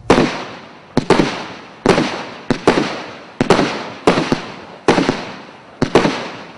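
GWM 6102 fireworks battery (cake) firing shot after shot, about one loud bang a second, some coming in quick pairs, each followed by a fading rumble and echo.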